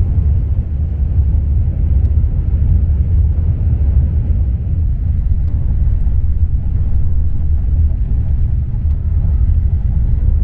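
A moving train, heard as a steady low rumble with no clear beats or changes.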